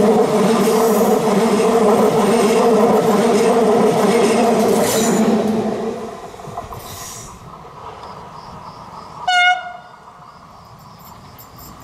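Stadler FLIRT electric multiple unit (ETR 170) passing close at speed, a loud steady rumble of wheels and running gear with clicks over the rail joints, which drops away about six seconds in. About three seconds later a train horn gives one short blast, and then it is quiet.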